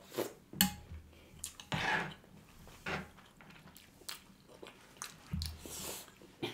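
Close-miked chewing and mouth sounds of people eating, broken by scattered short clicks and two brief hissy smacks.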